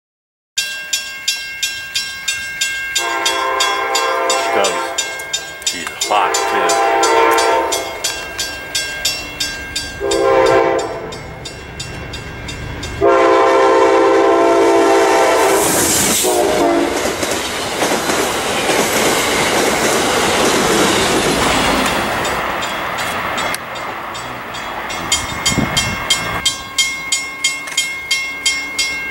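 Amtrak passenger train sounding its horn in the long, long, short, long grade-crossing pattern as it approaches, then passing close with a loud rush of wheels on rail. A railroad crossing bell rings steadily, about two strikes a second, before the horn and again after the train has passed.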